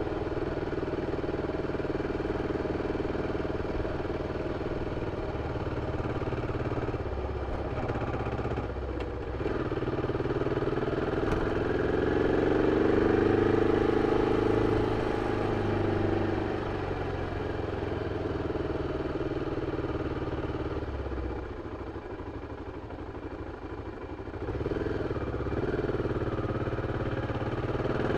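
BMW F 650 CS motorcycle's single-cylinder engine running through its original exhaust as it is ridden. The engine note climbs and gets louder about ten seconds in, drops back to a lower, quieter running, then rises again near the end.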